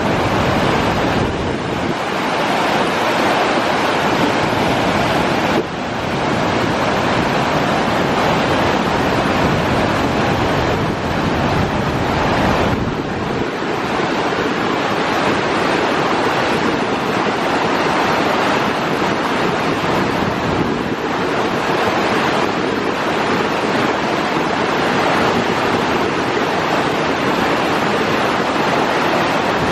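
Tvindefossen waterfall's water crashing down its rock steps, a loud, steady rush of falling water that dips briefly about six seconds in.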